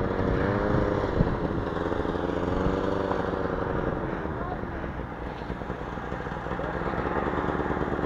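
Vehicle engine running on the move, its pitch rising and falling over the first four seconds and then holding steadier under a constant rumble.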